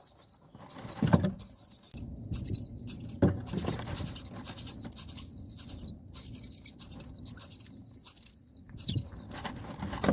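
Common myna nestlings begging: rapid, evenly repeated high-pitched chirps, with a few low thumps of movement in the nest about a second in, again near three seconds and near the end.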